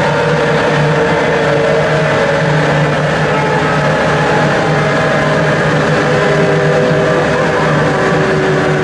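Audi S3 quattro's 1.8-litre 20-valve turbo four and quattro drivetrain running steadily on chassis-dyno rollers at around 3,000 rpm without making power, the pitch easing slightly lower near the end.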